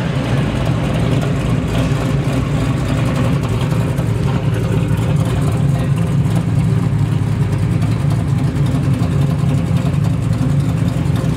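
The twin-turbo 540 cubic-inch big-block V8 of a 1955 Chevrolet Bel Air running steadily at low revs as the car rolls along slowly.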